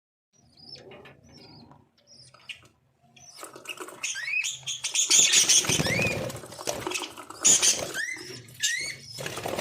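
Caged lovebirds chirping, short calls that sweep upward in pitch, repeated over and over, among noisy bursts of wing flapping and movement. Faint at first, much louder from about three and a half seconds in.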